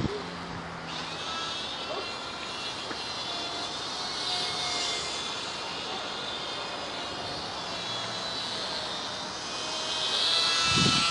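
Small electric motor and propeller of a WLToys F949 Cessna-182 RC plane whining in flight, its pitch wavering and its loudness swelling as it passes, about four seconds in and again near the end, with wind noise underneath.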